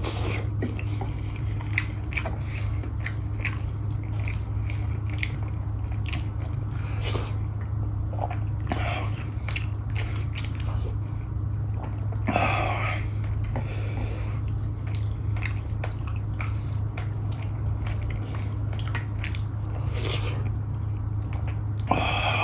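A person chewing and biting food close to the microphone, with many small wet mouth clicks and a few louder bites, over a steady low hum.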